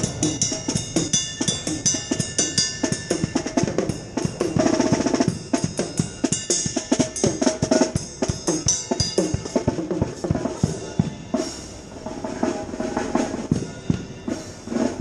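Fast drumming with quick snare-like strokes and rolls, a short pitched sound mixed in about four to five seconds in; the drumming gets quieter about two-thirds of the way through.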